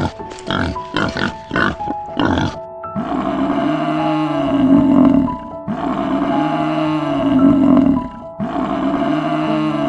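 Wild boar grunting in a quick series, about two or three grunts a second. About three seconds in, a water buffalo starts lowing: three long, low calls, each a couple of seconds long, over soft piano music.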